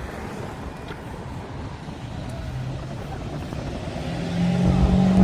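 A car engine running at a steady pitch, growing clearly louder over the last second or so as the car comes close.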